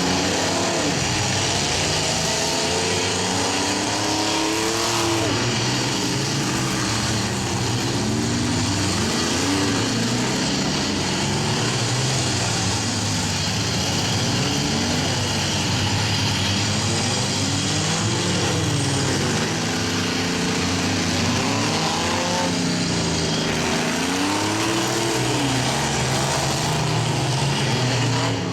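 Several minivan and small-pickup engines revving up and down over and over as the remaining vehicles in the demolition derby drive and ram each other, with a constant haze of engine and arena noise.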